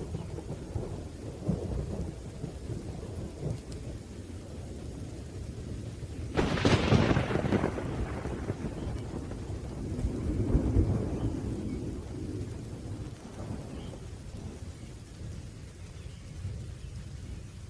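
Thunderstorm with rain: low rolling thunder rumbling throughout, a sharp thunderclap about six seconds in, and another swell of rumbling around ten seconds in.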